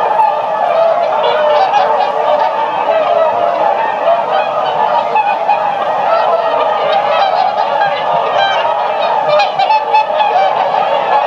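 A flock of swans honking, many calls overlapping in a continuous, unbroken chorus.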